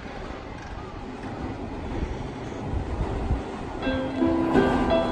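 Seibu 6000 series electric commuter train approaching a station platform: a rising rumble of wheels on the rails, with a few low thuds around three seconds in. About four seconds in, music with held notes starts over it.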